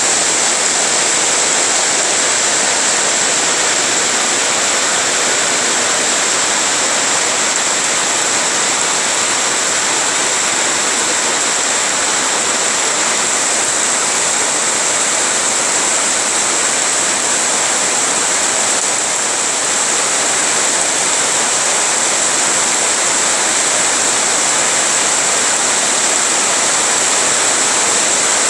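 Rain falling steadily, a dense, even hiss that does not let up.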